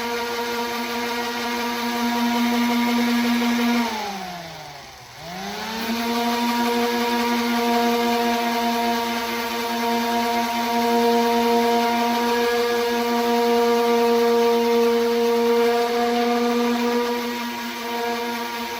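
Orbital sander running steadily on a car's filler and metal bodywork, with a steady motor whine. About four seconds in, its pitch and loudness fall away to about half, then climb back up to full speed within two seconds.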